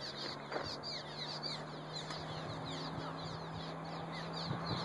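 A colony of small birds nesting under a bridge, calling continuously: many short, overlapping high chirps, over a steady low hum.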